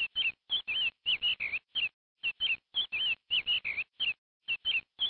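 Small bird chirps, each a quick up-and-down whistle, coming in fast irregular groups of two or three with dead silence between them, like a looped bird sound effect.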